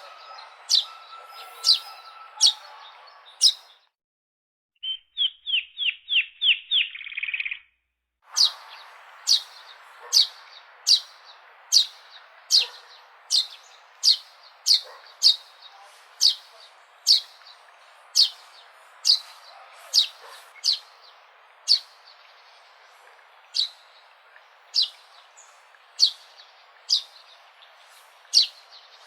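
Sparrow chirping, short sharp chirps repeated about once or twice a second. Near the start there is a brief break, then a quick run of eight or so chirps before the steady chirping resumes.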